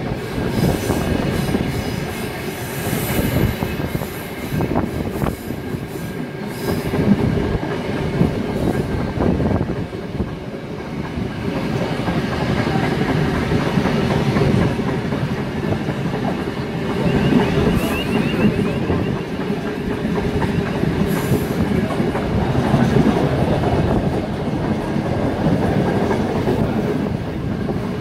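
Ride noise from aboard a moving steam-hauled passenger train: a steady rumble of wheels on the rails, with clickety-clack over rail joints. A brief high wheel squeal comes about two-thirds of the way through.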